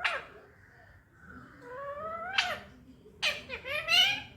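Indian ringneck parakeet talking in a mimicked voice. It makes two drawn-out rising notes, each ending in a sharp smack, then a quick run of chirpy, speech-like syllables near the end.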